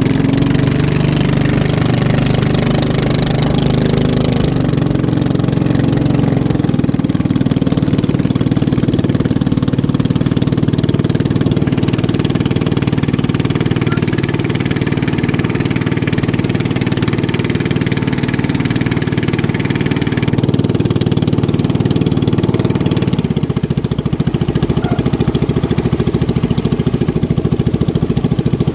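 Motorboat engines running steadily and loudly during a boat race. About 23 seconds in the sound turns rougher, with a rapid even pulsing.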